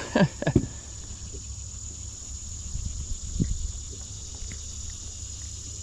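Steady high-pitched insect chorus, with a low rumble beneath it and a faint knock about three seconds in.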